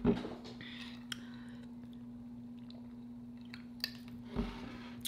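Quiet chewing and mouth sounds close to the microphone, with a few small clicks and a soft thump just after the start and again about four and a half seconds in, over a steady low electrical hum.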